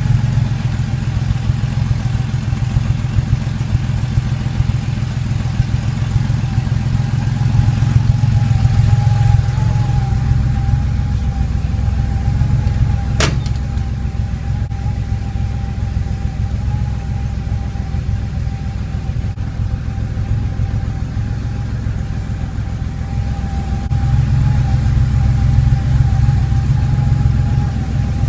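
A Porsche 911 Carrera 3.2's air-cooled flat-six idling steadily, with a thin steady whine alongside. One sharp click comes about halfway through.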